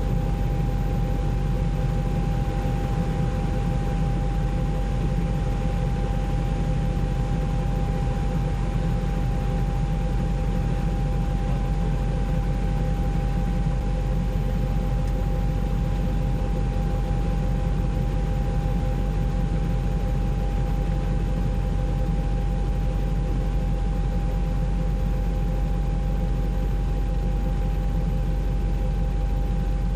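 Helicopter engine and rotor noise heard from inside the cabin: a steady low rumble with a constant whine.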